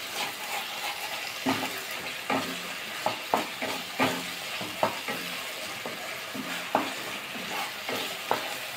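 Poppy-seed and green-chilli masala paste sizzling in oil in a non-stick kadai while a spatula stirs and scrapes it, with irregular sharp scrapes and taps about once a second over a steady sizzle. The masala is being sautéed (kosha) to cook it through.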